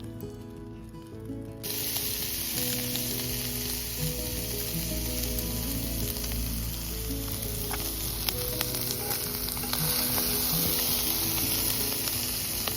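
Food frying in hot oil in a pan, a steady sizzle that starts suddenly about two seconds in, over background music.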